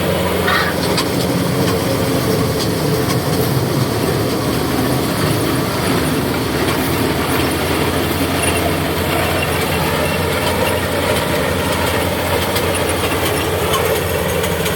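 Kubota DC70G rice combine harvester running steadily: a constant diesel engine note under continuous mechanical noise from the working machine.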